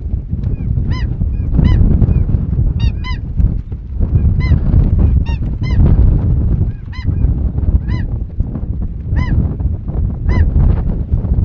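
Geese honking: a run of short, high calls, one or two a second, over a loud, steady low rumble.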